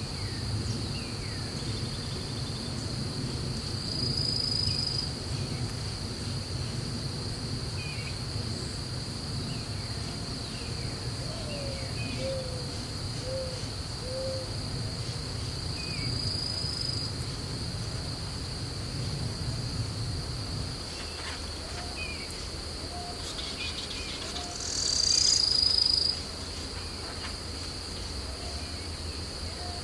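Steady high-pitched trilling of insects, with a louder buzzy swell near the end. Over it, a short run of four low hooting bird notes near the middle and scattered faint chirps; a low rumble underneath stops about two-thirds of the way through.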